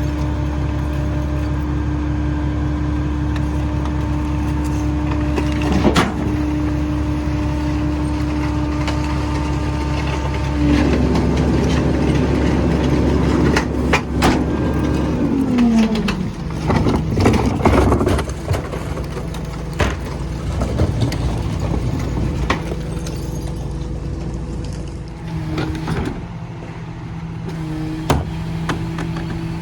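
Mini rear-loader garbage truck engine running steadily, then rising in pitch for a while and gliding back down about halfway through. Sharp clanks come near 6 and 14 seconds, and irregular clattering follows around the middle before the engine settles to a steady lower note.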